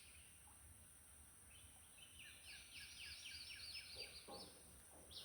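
Faint songbird song: a quick run of repeated downslurred whistled notes, about six a second, lasting about two seconds in the middle, over quiet outdoor background.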